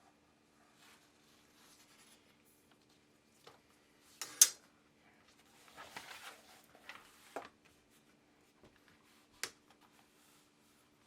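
Hand leatherworking at a bench: light scratching and rubbing of tools on leather, with a few sharp clicks and knocks. The loudest click comes about four and a half seconds in.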